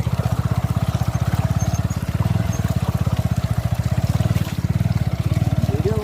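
Motorcycle engine running steadily at low revs, its exhaust pulsing evenly and fast.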